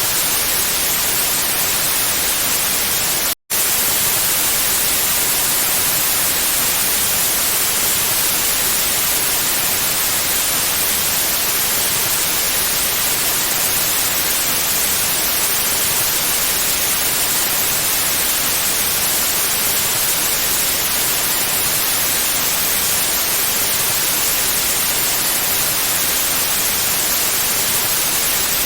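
Steady pure white noise, an even hiss that is brightest in the highs, broken once by a split-second dropout to silence about three and a half seconds in.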